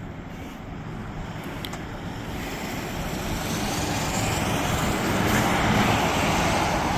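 A motor vehicle approaching, its engine and tyre noise growing steadily louder.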